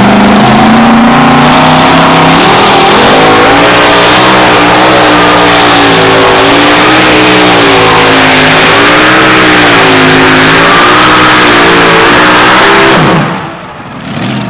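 Two-wheel-drive pulling truck's engine at full throttle, dragging the sled down the track. Its pitch climbs about two seconds in, then wavers up and down, and it drops away sharply near the end.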